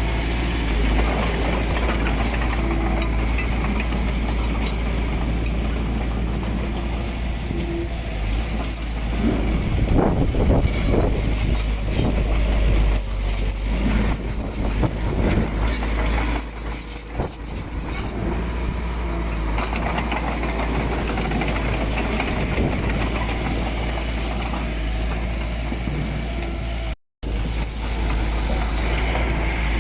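Heavy diesel earthmoving machinery running steadily, with a louder stretch of rattling and scraping between about nine and eighteen seconds in. The sound cuts out for a moment near the end.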